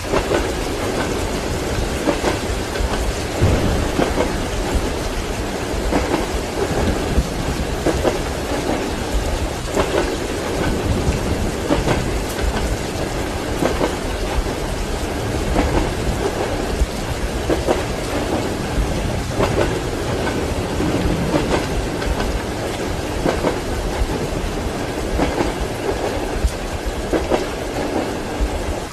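Steady rain together with a moving train's wheels clacking rhythmically over the rail joints, over a low running rumble.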